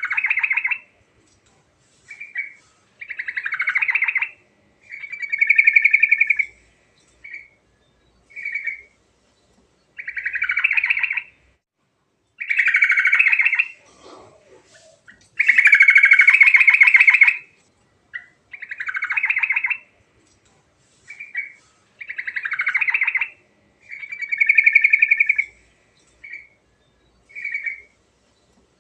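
Sooty-headed bulbul singing in a long run of short, bubbly phrases, each half a second to two seconds long, with brief pauses between.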